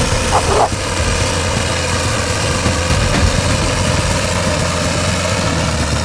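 Heavy diesel machine engine running steadily, with a brief squeak about half a second in.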